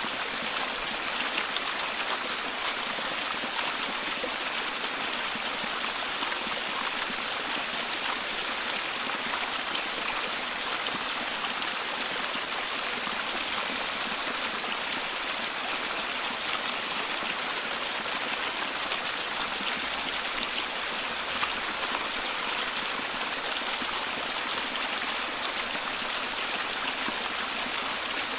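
Waterfall babbling: a steady, even rush of falling and splashing water that never breaks.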